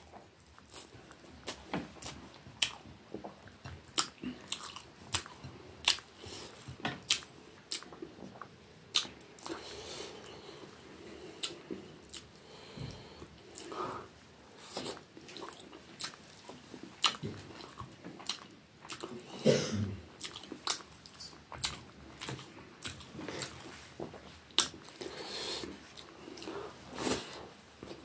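A person chewing mouthfuls of rice and fish curry, with many small, irregular mouth clicks.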